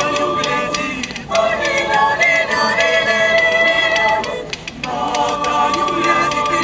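A choir singing long held chords in phrases, with brief breaths between phrases about a second in and again about four and a half seconds in.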